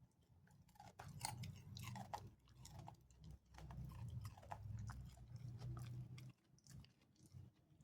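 A beagle chewing a raw carrot, with a quick run of wet crunches from about a second in that thins out to a few scattered bites near the end.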